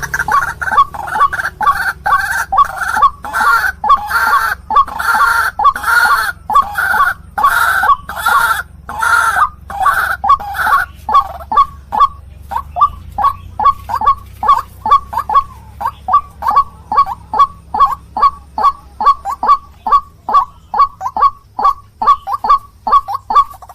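White-breasted waterhen (ruak-ruak) calling over and over: harsh, full notes about two a second, changing about halfway through to quicker, thinner notes about three a second.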